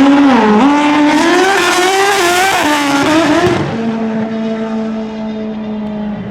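A drag-racing motorcycle engine revving up and down over a hiss of tire and exhaust noise. About three and a half seconds in it settles to a steady, lower held note.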